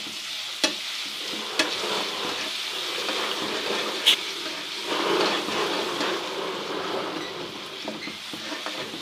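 Ginger-garlic paste frying in hot ghee with whole spices, sizzling steadily while it is stirred, with a few sharp clinks of the stirring utensil against the pan, the loudest about four seconds in.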